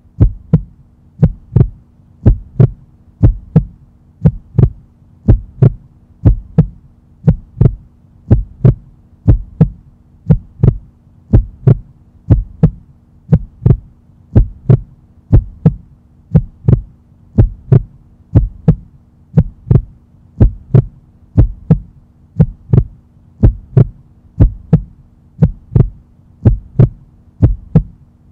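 Heartbeat sound effect: a steady lub-dub double thump about every 0.7 seconds, over a low steady hum.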